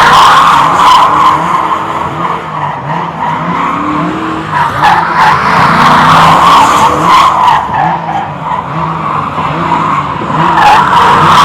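A car spinning its tyres on pavement: a loud, continuous tyre squeal over a revving engine whose pitch rises and falls. The squeal eases for a couple of seconds twice and builds again near the end.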